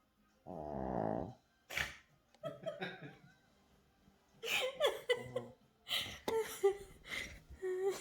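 A puppy gives a low, drawn-out growl for about a second. It is followed by a run of short, breathy voice sounds.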